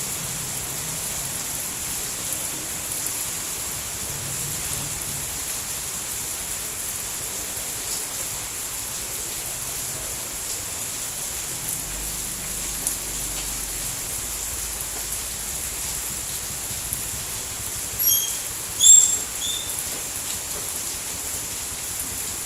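Steady, even hiss of falling rain. Near the end, a few short high-pitched chirps rise briefly above the rain.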